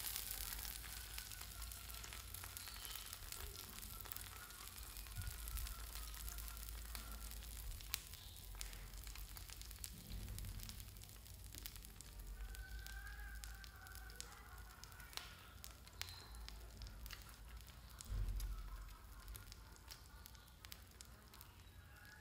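Close-miked eating sounds of chewing a fried sausage: a steady run of small wet clicks and crackles, with a few dull thumps.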